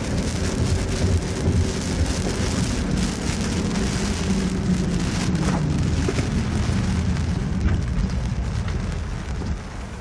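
Heavy storm rain hitting a car's windshield and body, a dense patter of drops over a low rumble of storm wind and road noise, heard from inside the car.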